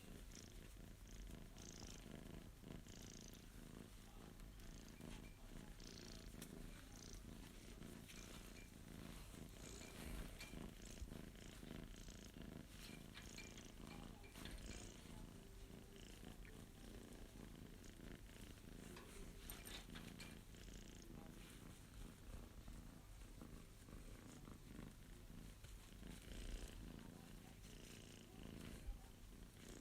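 Abyssinian cat purring steadily and faintly while being stroked.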